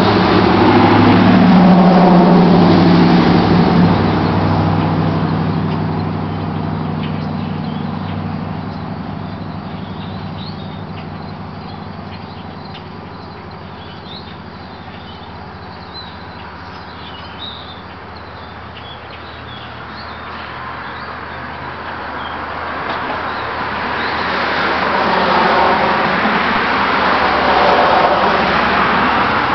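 A 1977 Chevrolet C10 pickup with a Flowmaster exhaust driving past. Its engine is loud at first and fades away over about a dozen seconds, then grows louder again near the end as the truck comes back. Faint bird chirps can be heard in the quiet middle.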